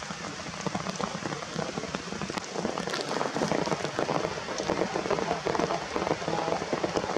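Rain falling steadily, a dense mass of drops hitting surfaces.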